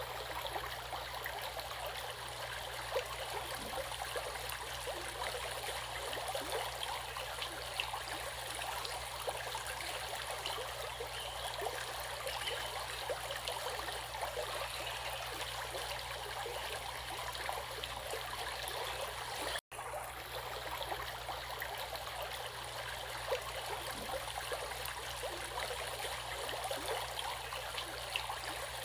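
Stream water running and splashing over stones in a steady babble of small trickles. The sound cuts out for an instant about two-thirds of the way through, then carries on the same.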